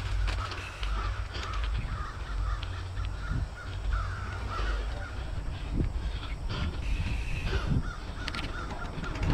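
Birds calling in a quick run of short, repeated notes, over a steady low rumble of wind on the microphone as the bike rolls along the trail.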